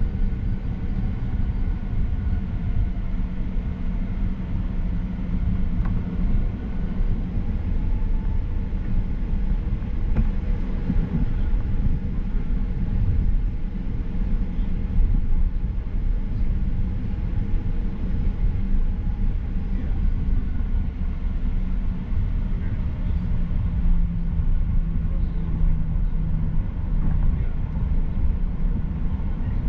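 Steady low rumble of a Boeing 737-800's CFM56 turbofan engines and airflow, heard inside the passenger cabin, with a few faint steady tones above it.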